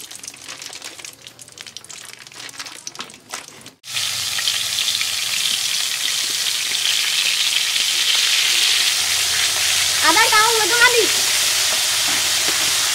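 Chicken pieces frying in an aluminium pot on a portable gas stove: a steady, loud sizzle that starts suddenly about four seconds in, after a few seconds of faint crackling.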